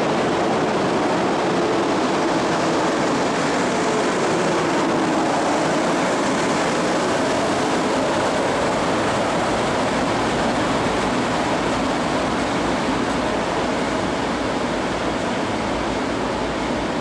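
Regional train of double-deck coaches with a DB class 114 electric locomotive rolling slowly along the platform: a loud, steady rumble and rush of the train's running gear, easing a little near the end.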